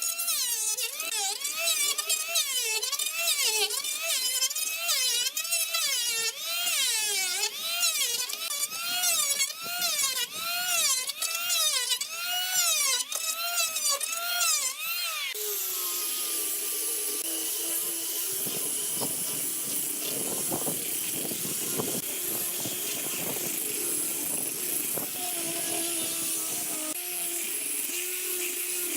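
Rhythmic strokes of a tool working bamboo, each with a squeal that rises and falls, about one and a half strokes a second. About halfway through they give way to the steady high whir of a small power tool.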